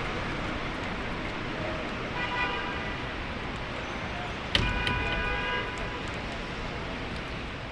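Traffic on a rain-soaked city street, a steady wash of rain and road noise, with two car horn honks: a short one about two seconds in and a louder one that starts sharply about four and a half seconds in and lasts about a second.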